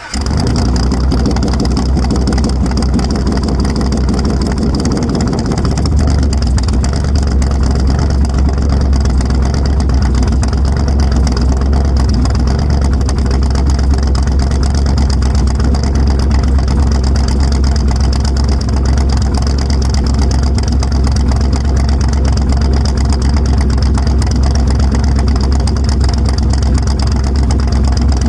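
LQ4 6.0-litre V8 with a stage 4 cam catching and idling loud through open headers. The idle note changes about six seconds in, then holds steady.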